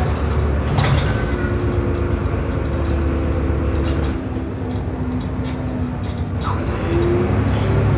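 Irisbus Agora S city bus heard from inside the cabin while under way: the engine hums low and steady with a whine above it, and there is a knock about a second in. The engine note drops about four seconds in and picks up again near the end.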